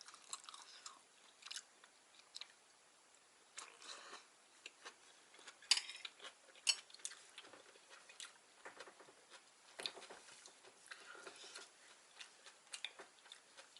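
A person chewing food close to the microphone: irregular soft mouth sounds and small clicks and smacks.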